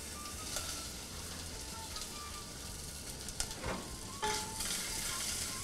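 Diced potatoes sizzling in hot oil in a stainless steel saucepan, a steady frying hiss with a few light clicks as they are tipped in and moved about.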